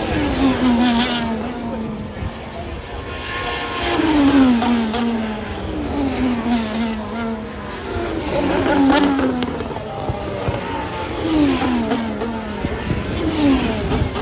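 Formula 1 cars' turbocharged V6 engines passing one after another, about six in a row, each engine note falling in pitch as the car goes by.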